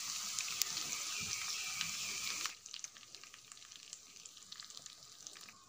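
Chicken pieces frying in oil and masala in a pan, a steady sizzle with small crackles. About two and a half seconds in, it drops abruptly to a much quieter crackle.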